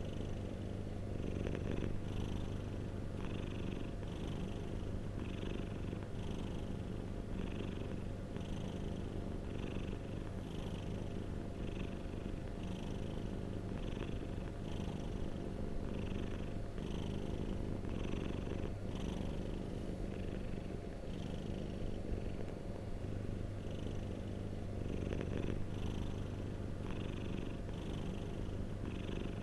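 Domestic cat purring steadily and close up, the purr swelling and easing in a regular rhythm of about one cycle a second.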